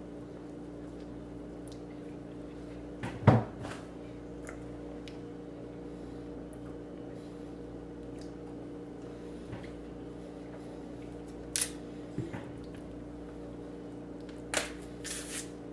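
Handling noises from eating bananas: a loud thump about three seconds in, then a few scattered clicks and rustles near the end, over a steady electrical hum.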